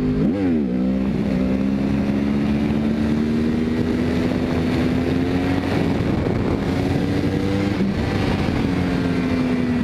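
Yamaha R1 sportbike's inline-four engine pulling in second gear for a wheelie. A quick rev blip comes just after the start, then a steady note rises slowly under throttle and drops as the throttle eases off about eight seconds in.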